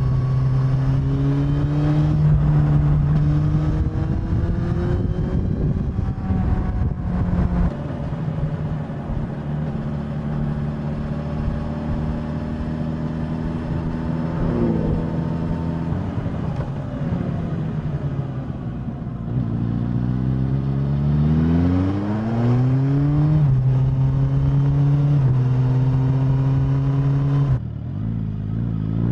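Suzuki GSX-S1000's inline-four engine and exhaust under way, heard from the bike. The pitch mostly holds steady, then climbs as the bike accelerates in the second half, with drops in pitch at gear changes before it climbs again near the end.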